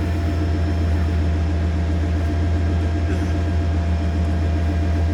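Pickup truck engine idling with a steady low drone; no crunch or impact from the bicycle is heard.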